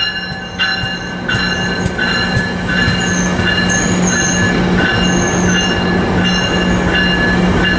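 Metrolink commuter train of Rotem-built cars moving at the station, its wheels squealing in high, shifting tones over a steady low hum from the train.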